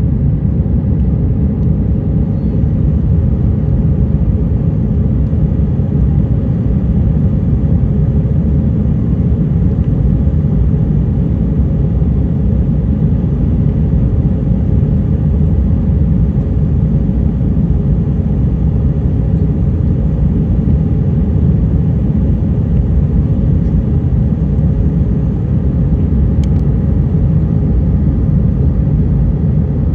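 Steady rumble of an Airbus A320's jet engines and airflow heard from inside the passenger cabin, with a faint steady hum over it. The level holds even throughout, with no surge or change in pitch.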